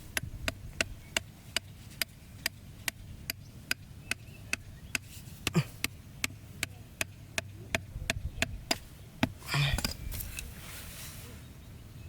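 Quick, regular chopping strokes, about three a second, as of a blade cutting into bamboo or wood; they stop after about nine seconds and are followed by a brief rustle.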